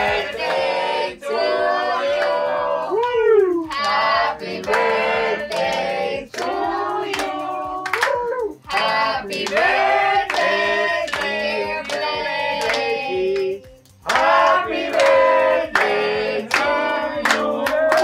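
A group of voices, children's among them, singing together, with hand claps.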